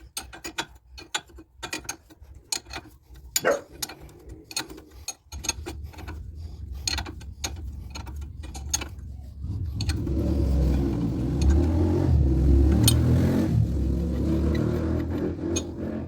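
Ratchet wrench clicking in quick, uneven strokes as a nut on the car's front suspension is worked loose. About five seconds in, a low engine-like rumble comes in and grows louder from about ten seconds on.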